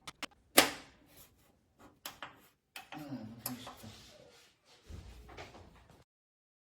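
A series of irregular clicks and knocks, like wooden handling noises, the loudest just over half a second in.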